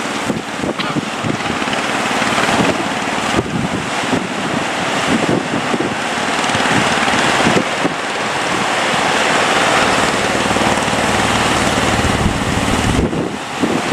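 Big waves breaking in heavy surf, with strong wind buffeting the microphone. A boat's motor runs steadily underneath.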